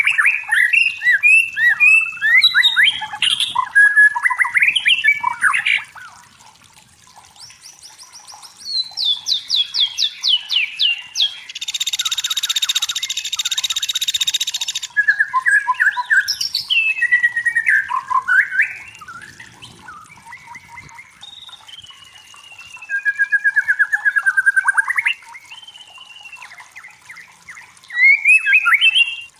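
White-rumped shama singing: loud bouts of varied phrases, with whistles, rapid trills and fast-repeated notes, separated by quieter gaps. A little before halfway there are about three seconds of harsh, dense rasping buzz.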